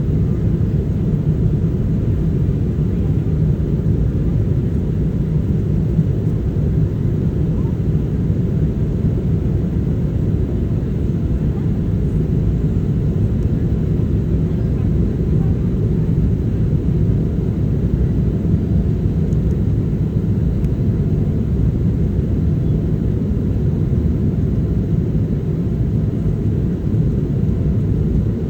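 Steady low rumble of an airliner heard from inside the cabin: jet engine and airflow noise, unchanging throughout.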